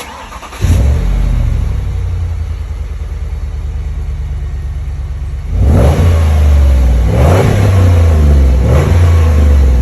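A 4.6L V8 through a double X-pipe and Flowmaster FlowFX mufflers fires up about half a second in with a loud flare and settles into an idle. From about five and a half seconds in it is blipped three times, each rev rising and falling back.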